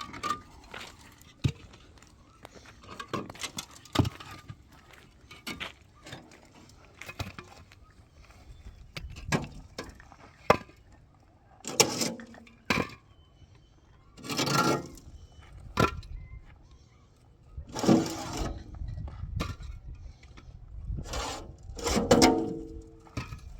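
Irregular knocks and clinks, with a few longer clattering scrapes about twelve, fourteen, eighteen and twenty-two seconds in, of hard objects being handled.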